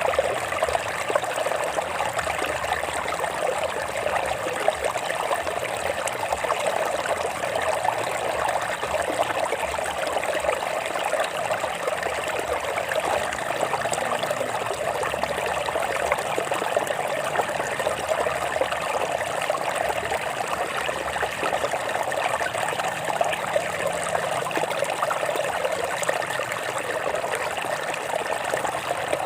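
Water flowing and trickling over rocks in a stream, a steady splashing rush with no pauses.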